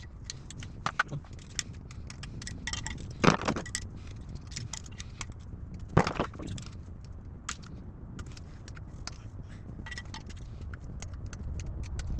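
Small metal parts being handled during a hydraulic unit rebuild: scattered light clinks and taps, with two louder knocks about three and six seconds in.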